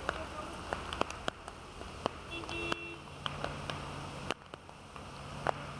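Heavy rain falling, with single drops striking hard and close as sharp irregular clicks over a steady hiss. A low vehicle engine hum runs underneath, and a brief tone sounds about two and a half seconds in.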